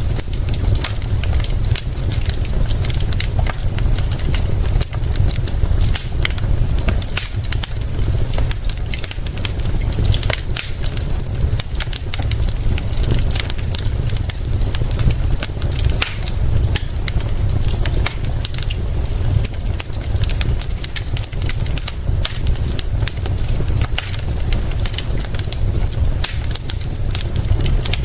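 Wood fire crackling with frequent sharp pops over a steady low rumble.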